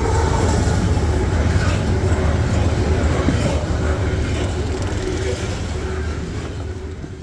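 Freight train rolling past with a steady low rumble, fading out near the end.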